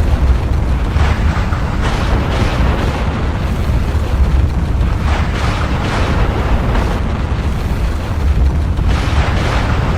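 Volcano erupting: a loud, continuous deep rumble with irregular rushing surges every second or few.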